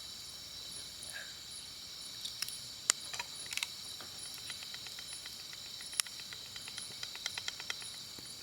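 Crickets chirring steadily in several high tones, with a few sharp clicks, the loudest about three and six seconds in.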